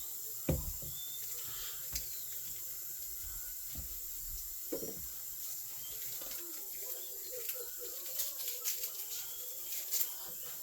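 Water running, with a few sharp knocks and then a run of small clicks and clatters of kitchenware being handled.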